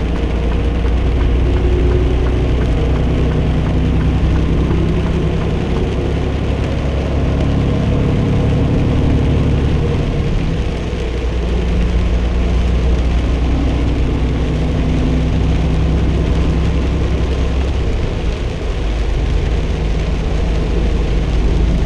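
Semi truck's diesel engine droning steadily at highway speed, heard inside the cab along with tyre and road noise.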